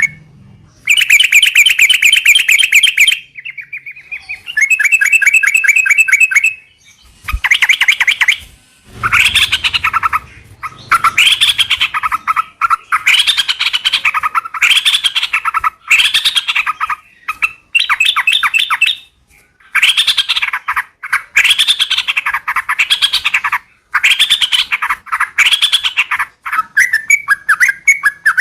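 Yellow-vented bulbul (trucukan) song: two fast rattling trills, then a string of bubbly chirping phrases, each about a second long, repeated one after another. This is the long rolling 'ropel' style used as a lure call to set other bulbuls singing.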